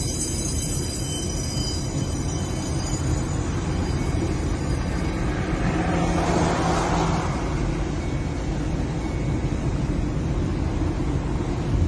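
Steady low rumble of a car on the move, with a brief louder swell about six seconds in.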